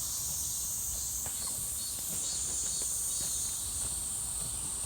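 Steady high-pitched chorus of insects singing in the woods, with faint scattered clicks and rustles underneath.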